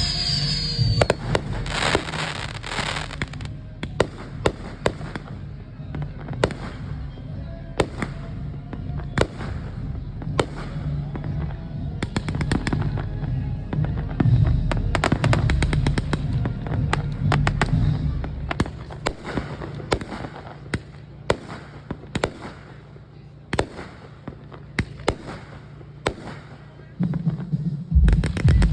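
Fireworks going off: many sharp bangs and crackles at irregular intervals over a low rumble of booms, with a dense crackling burst about two seconds in.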